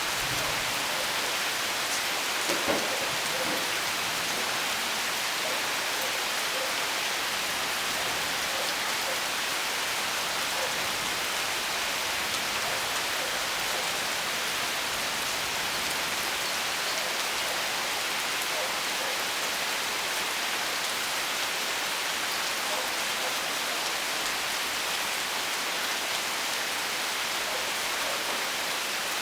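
Steady rain falling and pattering on surfaces, an even hiss with scattered drops. A single brief, louder tap stands out about two and a half seconds in.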